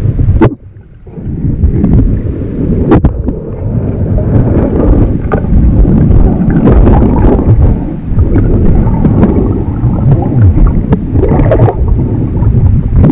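Strong wind buffeting the microphone: a loud low rumble that drops away for about a second near the start, then carries on.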